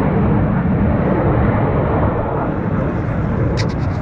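Loud, steady jet noise from the Red Arrows' BAE Hawk T1 jet trainers flying their display. A quick run of four clicks is heard near the end.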